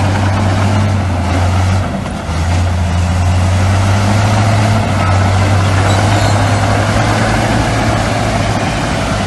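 Heavy diesel earthmoving machinery running steadily with a deep, constant hum, briefly dipping about two seconds in.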